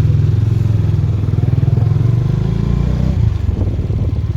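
Bajaj Dominar 400's single-cylinder engine running with a steady, rapid low thumping beat.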